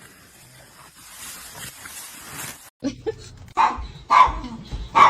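Faint hiss, then from about three seconds in a dog gives a few short barks and whines.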